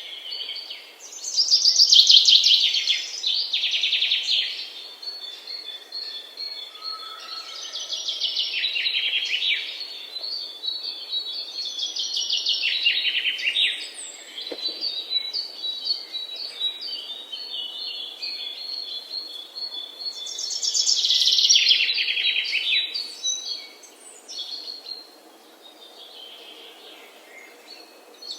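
Songbirds singing: a series of fast trilled phrases, each a second or two long, with thin, high repeated notes between them. The loudest phrases come about two seconds in and again about twenty-one seconds in, and the singing thins out near the end.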